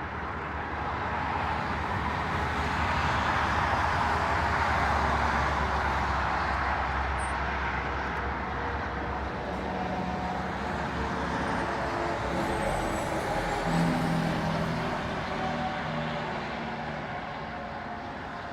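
Motor vehicle engine running nearby: the noise swells to a peak about five seconds in and eases off, then a lower engine hum wavers in pitch through the second half.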